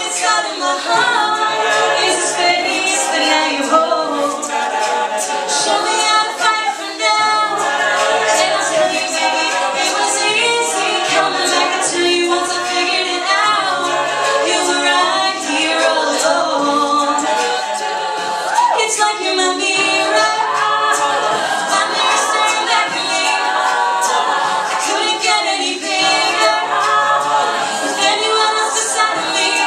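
An a cappella vocal group singing in harmony: several layered voices over a low sung bass line, with no instruments.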